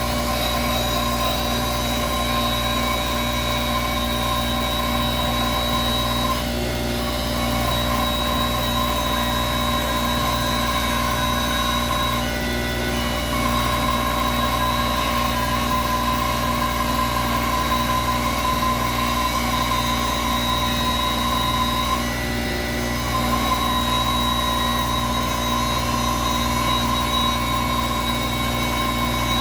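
Bandsaw running steadily with a constant hum and a high whine. The whine dips briefly three times.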